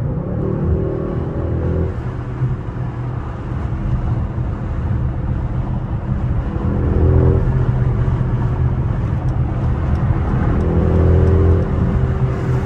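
Mercedes-AMG GLE 63 S twin-turbo V8 heard from inside the cabin, accelerating at freeway speed over steady road and tyre rumble. The engine note swells about two seconds in, around the middle and again near the end.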